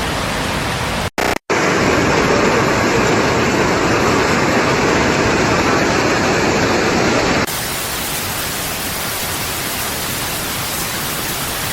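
Loud, steady rushing of water with no distinct events, cut into stretches: two brief drop-outs about a second in, the loudest and deepest rush in the middle, and a thinner, hissier rush from about seven seconds in.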